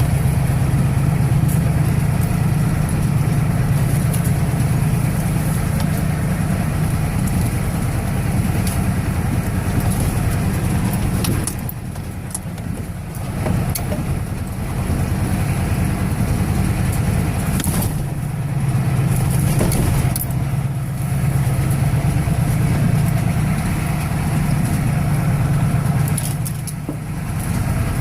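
1985 Ford 6.9-litre diesel V8 running as the truck drives along, with a steady low engine hum. The engine note eases off briefly about twelve seconds in and again near the end.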